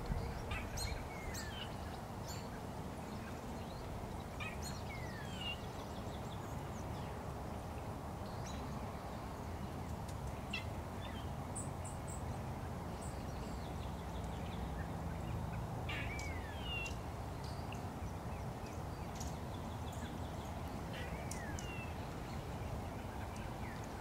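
Wild birds giving short, scattered chirps that slide downward in pitch, with a few brief very high notes and some faint clicks, over a steady low rumble of background noise.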